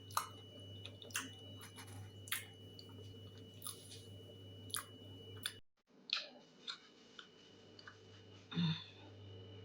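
Close-mic'd mouth sounds of someone eating grilled chicken: chewing, with short wet clicks about once a second, over a faint steady hum.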